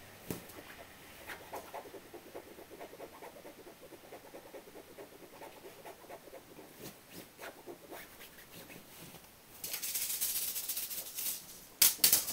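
Paper sugar packets being batted about by a cat: light rustling and patter with the sugar grains rattling inside, a louder crinkling rush about three quarters of the way in, and a few sharp taps near the end.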